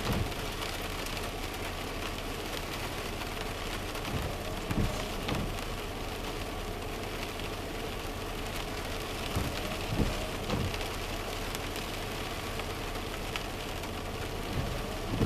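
Rain falling on a car's roof and windshield, heard from inside the car, steady throughout. The windshield wipers are running, with a group of about three dull thumps every five seconds or so.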